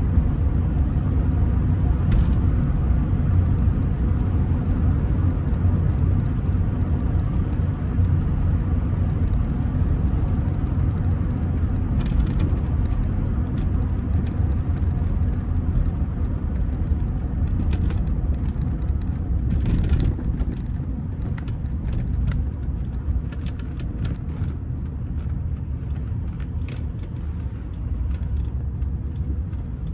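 Inside the cabin of a moving Rolls-Royce Silver Spirit III: a steady low rumble of road and engine noise from its 6.75-litre V8, with a few faint clicks and easing slightly near the end.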